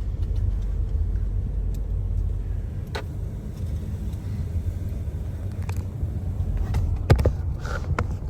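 Car driving along: a steady low rumble of road and engine noise, with a few short clicks or knocks, the sharpest about seven seconds in.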